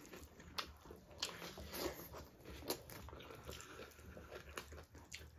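Close-miked mouth sounds of eating chicken drumsticks and rice: chewing with faint, irregular wet clicks and lip smacks.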